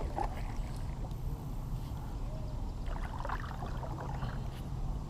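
A kayak drifting quietly on marsh water: faint lapping and dripping around the hull over a low steady rumble, with a few small ticks and short chirp-like sounds about three seconds in.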